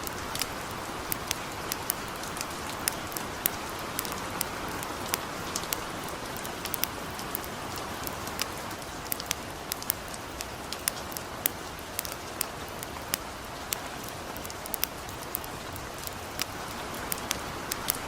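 Light rain falling steadily, mixed with a campfire crackling: a constant rain hiss with frequent sharp, irregular pops.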